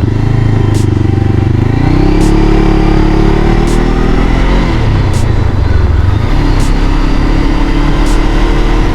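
Honda CBR500R parallel-twin motorcycle engine running under way, rising in pitch as it pulls up about two seconds in, dropping back near the middle, then pulling up again, over wind and road noise.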